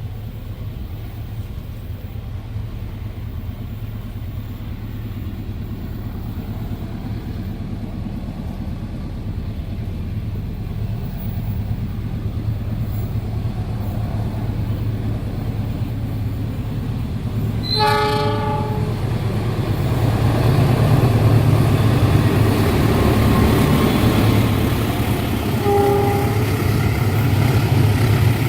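A train approaching and passing, its low rumble growing louder. The locomotive's horn sounds once for about a second, then again briefly a few seconds later.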